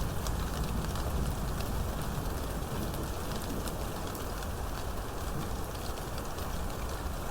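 Steady heavy rain falling, with many separate drop ticks spattering over an even hiss and a steady low rumble underneath.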